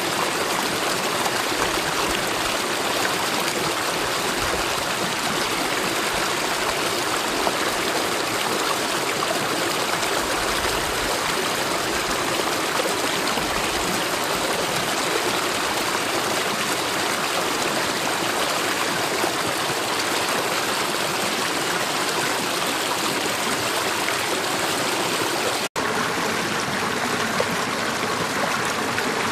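Mountain valley stream rushing steadily over rocks, a dense, even sound of flowing water. The sound cuts out for an instant near the end.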